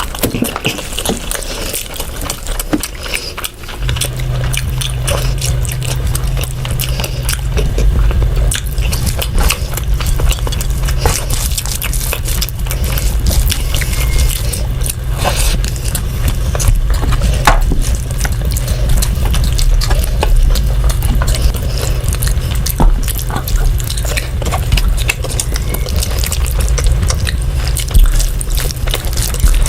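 Wet, sticky eating sounds of rice and curry being mixed and eaten, with many small clicks and smacks. A steady low hum comes in about four seconds in.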